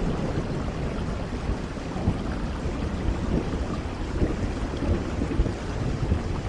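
Steady rain falling, with a low rumbling underneath.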